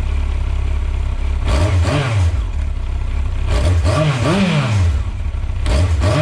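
1998 Yamaha R1's inline-four engine breathing through a GPR Furore Nero slip-on exhaust, idling and then blipped: revs rise and fall quickly about a second and a half in, twice in a row around the middle, and again near the end.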